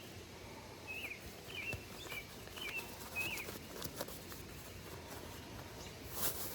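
A bird calling: a series of five short chirps about half a second apart, over a faint outdoor background, followed by a few light taps or clicks.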